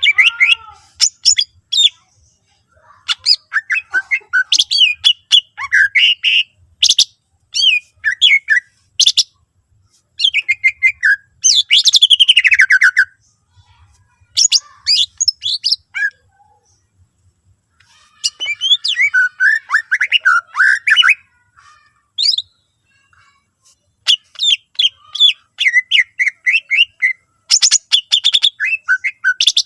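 Green leafbird (cucak ijo) singing a loud, varied song of rapid chirps, trills and sweeping whistles, in bursts of one to three seconds with short pauses between them. The song is packed with phrases imitated from other birds.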